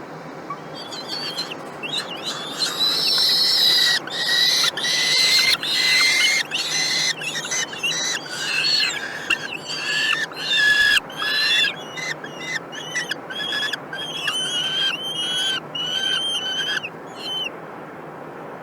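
Kestrels giving a long, rapid series of shrill, repeated calls, loudest in the first half and tailing off before stopping near the end.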